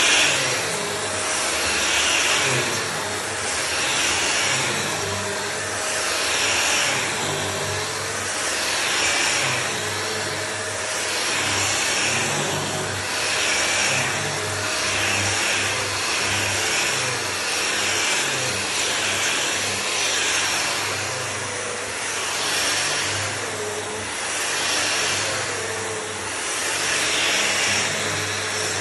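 Electric floor sanding machine running steadily, its sound swelling and easing about every two and a half seconds.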